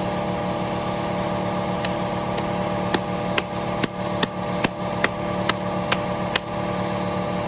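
Electric sander running steadily, with sharp ticks about twice a second from about two seconds in until near six and a half seconds.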